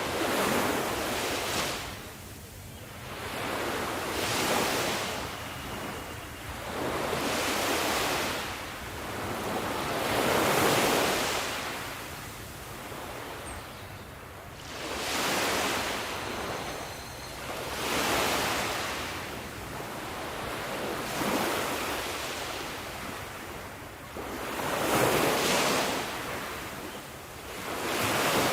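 Sea waves surging in and washing back, the surf swelling and fading in a regular rhythm, roughly one wave every three seconds.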